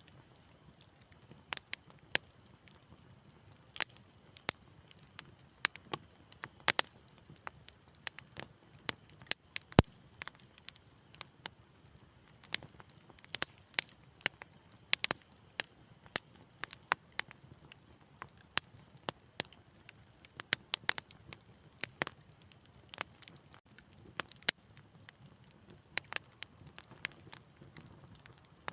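Wood fire crackling in a fireplace: irregular sharp pops and snaps over a faint low hiss, with one louder pop about ten seconds in.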